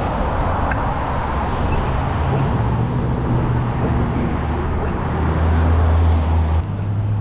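Wind and road noise while riding an e-bike: a steady low rumble that shifts abruptly about six and a half seconds in.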